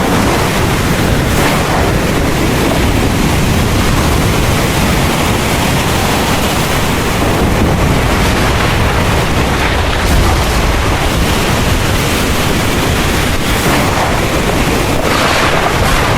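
Heavy rain pouring steadily, with a deep low rumble of thunder underneath.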